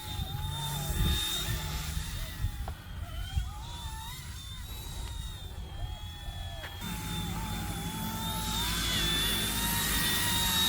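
Small electric RC helicopter's rotor motors whining, the pitch wavering up and down as the throttle changes in flight. Low wind rumble on the microphone builds up about two-thirds of the way in.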